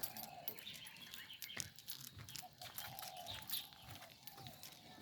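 Birds chirping in short repeated calls, with scattered light clicks and taps.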